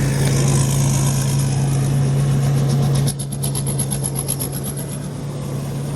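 A small engine running steadily with a low, even hum. About three seconds in, the sound drops a little and a fast, even ticking comes in for about two seconds.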